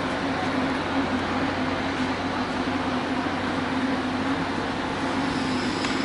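A train running, a steady rumble with a constant low hum.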